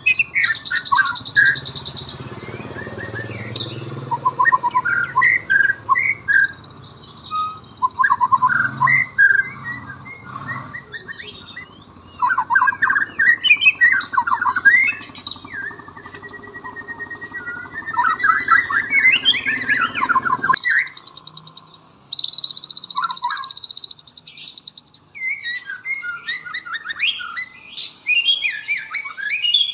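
Murai batu (white-rumped shama) singing in bursts of varied whistled notes and glides, answering bird song played from a phone, which adds several steady buzzy trills. A low traffic rumble from passing motorbikes runs beneath the song and stops suddenly about two-thirds of the way through.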